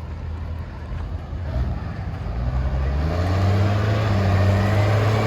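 Diesel pickup engine under load on a chassis dyno, its revs climbing steadily and then holding high and loud from about three seconds in.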